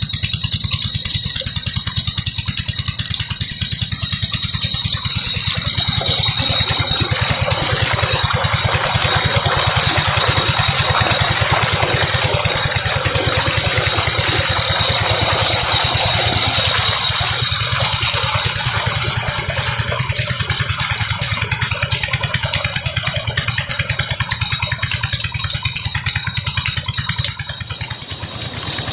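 16 hp diesel engine running steadily, driving a tube-well water pump.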